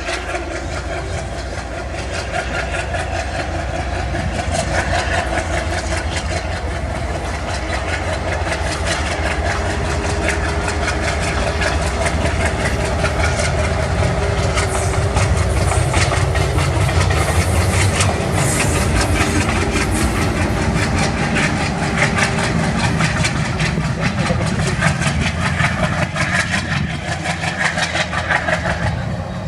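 A train running: a steady engine hum with fast, regular rail clatter. It grows slowly louder over the first half, then holds level.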